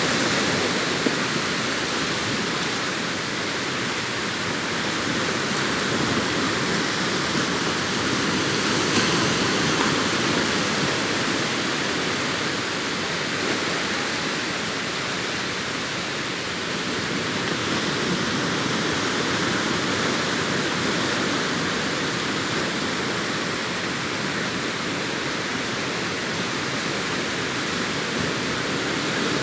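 Sea surf washing onto the beach: a steady rush of waves that swells and eases only slightly.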